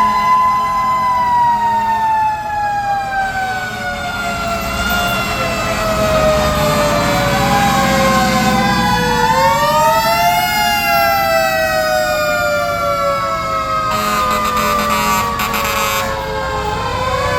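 Fire truck mechanical sirens wailing, their pitch sliding slowly down for several seconds and then spun back up about nine seconds in and again near the end, over the rumble of truck engines.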